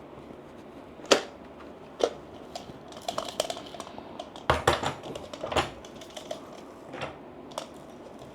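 Hard plastic clicks and knocks from the dust cup of a cheap handheld mattress vacuum being twisted off and handled: scattered sharp clicks, with a run of small rattling clicks near the middle. The vacuum's motor is not running.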